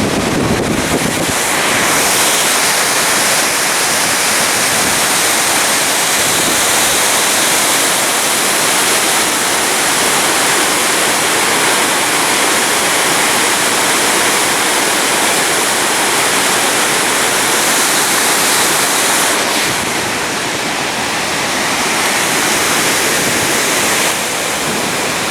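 Steady, loud rushing of water, like a waterfall or fast stream, easing slightly about twenty seconds in.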